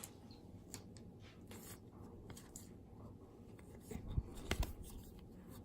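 Faint scattered clicks and short rustles of baseball cards being handled and flipped through, with a couple of soft thumps about four seconds in.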